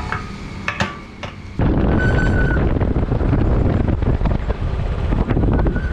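Wind buffeting the microphone of a moving motorbike rider, over the bike's running engine; the wind noise jumps up suddenly about a second and a half in as the bike picks up speed.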